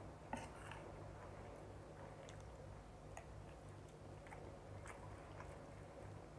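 Faint mouth sounds of chewing rice, with a few short, light clicks of a metal fork against a ceramic plate scattered through it; the sharpest click comes about a third of a second in.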